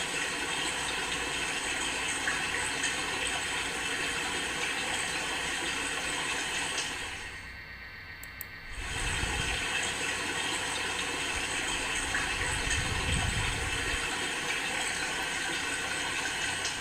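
River water flowing: a steady rushing noise, heard in two stretches with a short break about seven seconds in.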